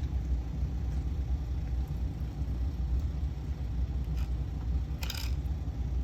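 Steady low background rumble, with one short, sharp noisy sound about five seconds in.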